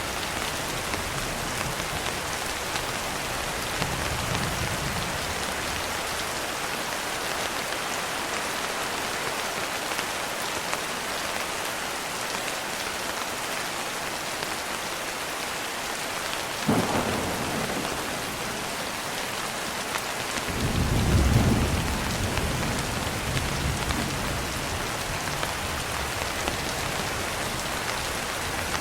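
Steady heavy rain with thunder: a faint low rumble early, a sharp crack about two thirds of the way in, then a deeper rolling rumble a few seconds later.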